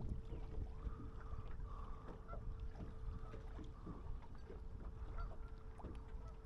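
Faint steady hum of an electric trolling motor, with small scattered clicks and knocks of fishing gear being handled in the boat.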